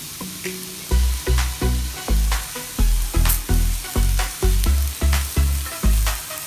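Food sizzling as it fries in a pan, a steady hiss. Background music with a pulsing bass line comes in about a second in and is the loudest sound.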